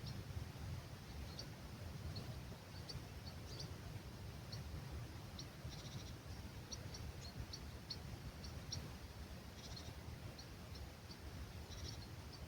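Small birds chirping at dawn in an olive grove, short high calls coming one or two a second, over the low rumble of a light breeze.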